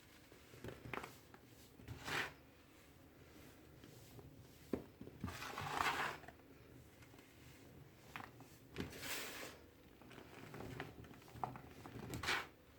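Clumps of red-dyed baking soda being crushed and crumbled, a string of short, irregular crunchy crackles, the longest about halfway through.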